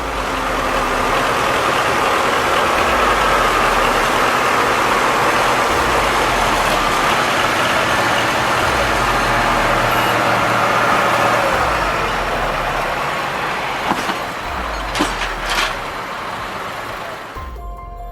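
Heavy vehicle engine running steadily, loud and noisy, with a few sharp clicks or knocks near the end.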